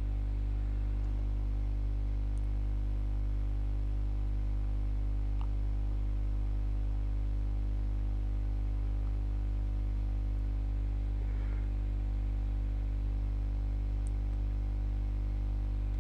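Steady low electrical hum with a stack of evenly spaced overtones, unchanging throughout, with a couple of faint ticks.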